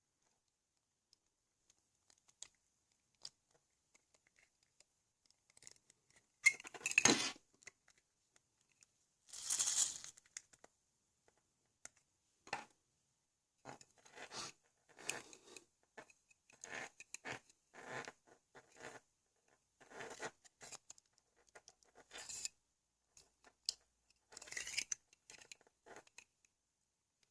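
Small plastic parts of a LEGO XL motor being handled and worked on by hand: irregular clicks, scrapes and rustles. Two louder scraping handling noises come about a quarter and a third of the way in, followed by a run of shorter clicks and scrapes.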